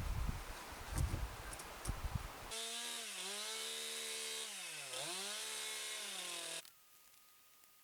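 Knocks and rustling, then about two and a half seconds in a chainsaw runs at high speed for about four seconds, its pitch dipping twice, before it cuts off suddenly.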